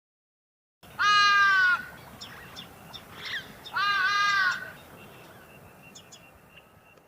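An animal calling twice, two drawn-out calls about three seconds apart starting about a second in, with faint short chirps between them.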